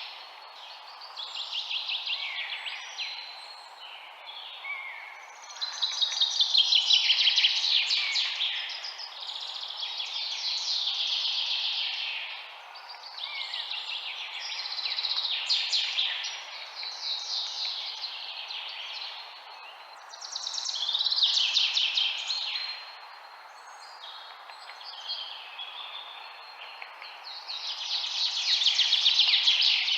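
Songbirds singing in fast trilled phrases, one to three seconds each, a new burst every few seconds, some overlapping. Under them runs a steady background hiss.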